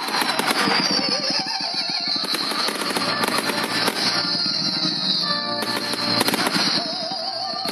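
Fireworks going off: dense crackling throughout, with repeated high-pitched whistles that fall in pitch and a wavering lower whistle near the end.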